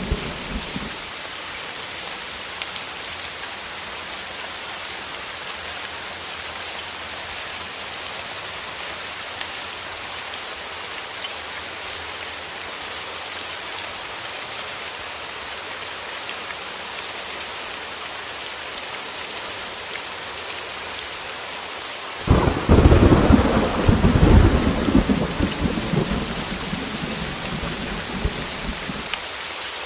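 Heavy rain falling in a steady hiss. About three-quarters of the way through, a sudden loud clap of thunder breaks in and rumbles away over several seconds.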